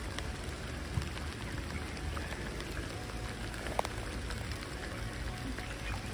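Steady rain, with single raindrops pattering as small ticks and two sharper drop hits about one and four seconds in, over a low rumble.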